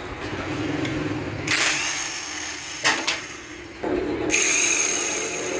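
A power tool running in short spells on the motorcycle's metal parts, starting and stopping suddenly, with a sharp knock about three seconds in.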